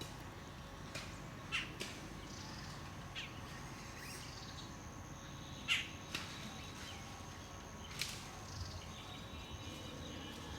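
Birds giving several short, sharp calls, scattered a few seconds apart, over a steady low outdoor background noise and a faint steady high tone.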